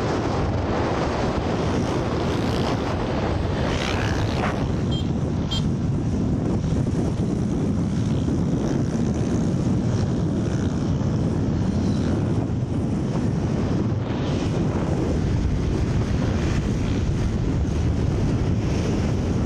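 Steady wind rush on the microphone over the running motorcycle and road noise while riding at speed.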